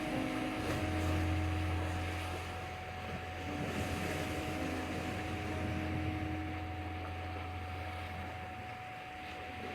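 Sea waves washing on the shore, mixed with a steady 741 Hz tone and held low drone notes of meditation music.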